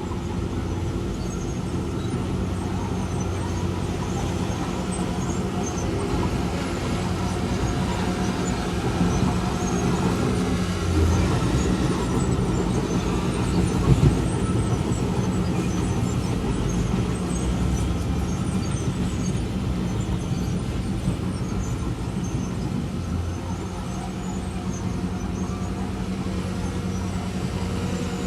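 Heavy earthmoving equipment's diesel engine running steadily, a low drone with a short sharp knock about halfway through.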